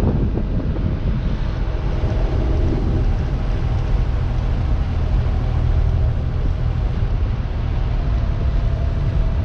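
Air-cooled 2.7-litre twin-plug flat-six of a 1972 Porsche 914-6 conversion, running steadily at a gentle cruise, heard from the open cockpit with the roof off.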